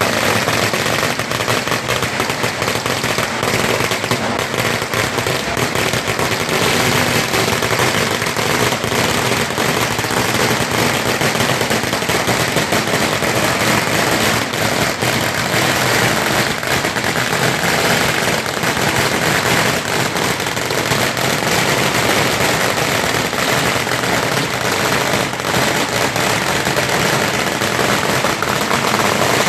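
Firecrackers going off in a dense, continuous crackle of rapid small bangs.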